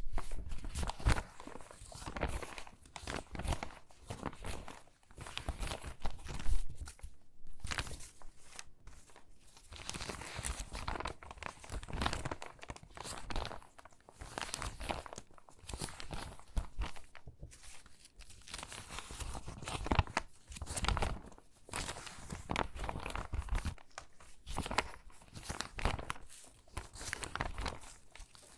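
Crinkly water-damaged magazine pages being handled and sorted by hand: a continuous irregular crackling and rustling of stiff paper.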